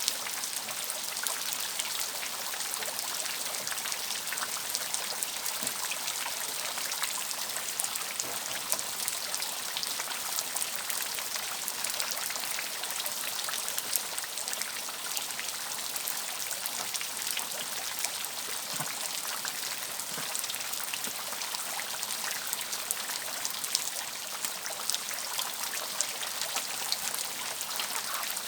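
Steady rain falling, with many separate drop hits heard throughout.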